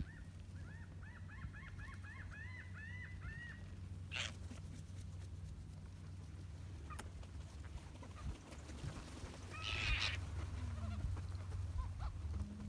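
Birds calling: a quick run of about a dozen short rising-and-falling notes in the first few seconds, then a louder, harsher call about ten seconds in, over a steady low rumble.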